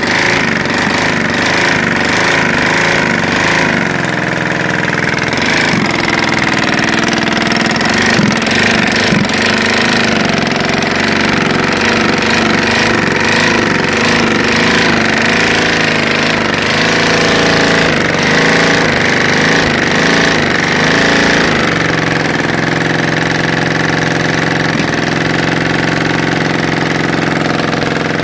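Prototype opposed-piston hybrid piston/rotary engine running, a little loud with no muffler on the exhaust. Its pitch wavers over the first dozen seconds, then holds steadier. The ignition timing is set without advance, which the builder says needs adjusting.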